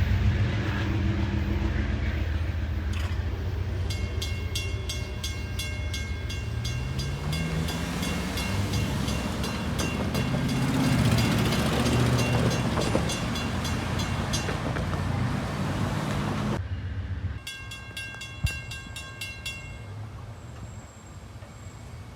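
Amtrak Downeaster passenger train rolling through a grade crossing, a loud low rumble of wheels on rail, with a crossing bell ringing in rapid even strokes. Near the end the rumble drops away sharply, leaving a quieter crossing bell ringing for a few seconds.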